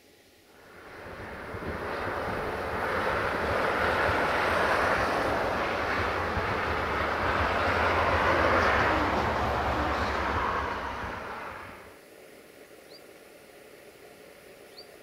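A train going past: a broad rumbling noise that builds up over a couple of seconds, holds loud, then fades away about twelve seconds in.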